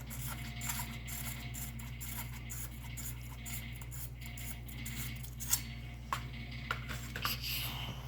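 Small metallic clicks and clinks of Beretta A300 Outlander shotgun parts being handled during disassembly, with a few sharper knocks in the second half, over a steady low hum.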